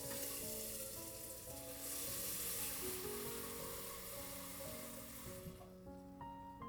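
Food sizzling in a frying pan, a steady hiss that stops shortly before the end, with soft background music underneath.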